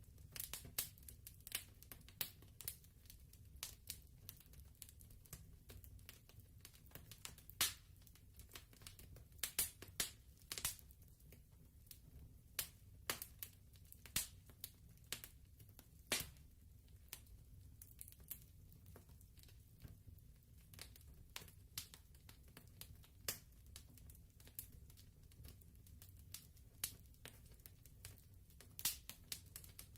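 Fireplace fire crackling quietly: irregular sharp pops and snaps over a low steady rumble.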